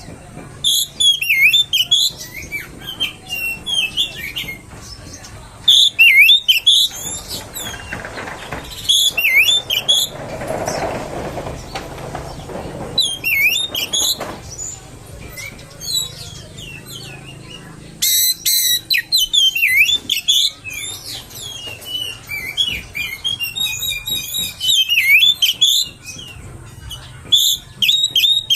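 Oriental magpie-robin (kacer) singing: loud phrases of rapid, sharply gliding whistled notes, one after another with short pauses between them. A brief duller noise runs under the song about ten seconds in.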